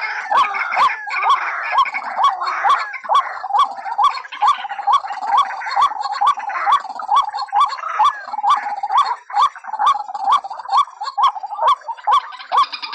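White-breasted waterhens calling as a bird-lure recording: a rapid run of repeated 'ruak' notes, about three a second, with other birds' harsher calls overlapping.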